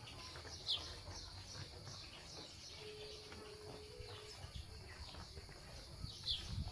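A bird gives two short falling chirps, about a second in and near the end, over faint outdoor ambience. A brief faint steady tone sounds in the middle.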